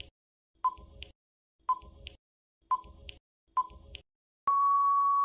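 Countdown timer sound effect: short ticks about once a second, each with a brief ping, then a long steady beep near the end as the time for answering a quiz question runs out.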